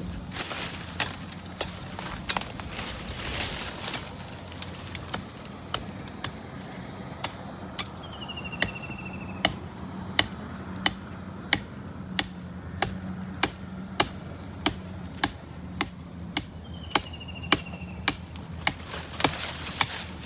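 Wood being chopped: sharp strikes at an even pace, about three every two seconds, growing louder from about halfway through.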